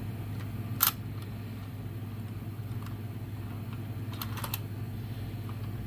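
A few light clicks and taps of a die-cast toy truck and figure being handled: one sharp click about a second in and a quick cluster of clicks about four seconds in, over a steady low electrical hum.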